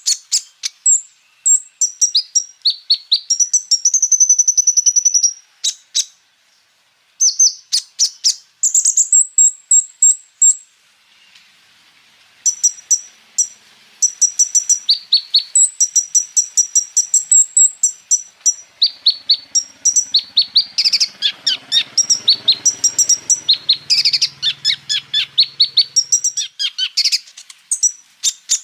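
Kolibri ninja (Van Hasselt's sunbird) singing: rapid rolling runs of sharp, high chips and trills in loud bursts, broken by short pauses, full of mimicked phrases.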